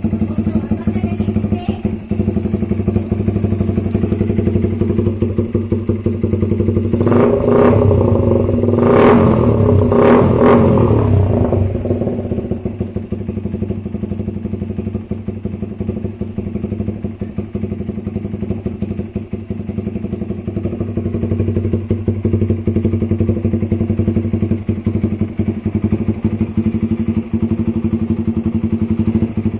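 Suzuki Raider 150's single-cylinder four-stroke engine idling through an aftermarket APX exhaust, with a run of quick throttle blips about seven to twelve seconds in before it settles back to a steady idle.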